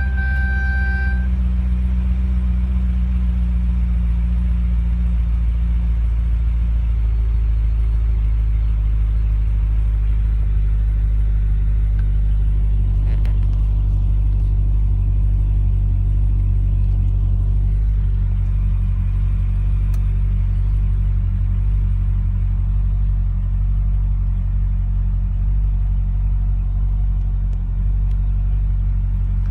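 2007 Corvette Z06's 7.0-litre LS7 V8 idling just after start-up, heard from inside the cabin as a steady low rumble. It is a little higher for the first few seconds, then settles into an even idle. A steady electronic chime cuts off about a second in.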